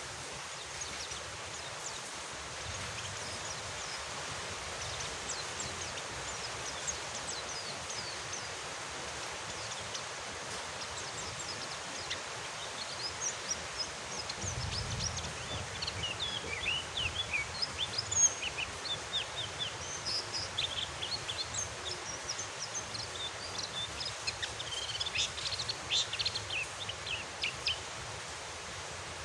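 Steady rain with a small songbird chirping over it in quick, high twitters, sparse at first and coming thick and fast from about halfway on.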